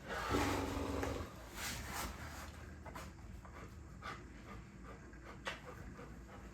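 A dog playing in a small room: a louder sound about a second long at the start, then scattered light clicks and taps.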